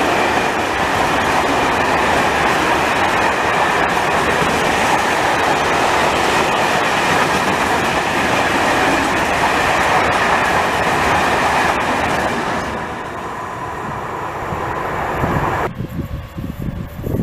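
A long freight train of covered hopper wagons rolling past close by: a loud, steady rumble of steel wheels on the rails, with a thin ringing note in it. Near the end it cuts off abruptly, leaving gusts of wind buffeting the microphone.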